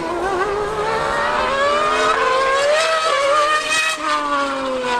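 High-revving racing engines accelerating hard down the track and passing. The pitch climbs for about three seconds with small wobbles, then falls away after about four seconds.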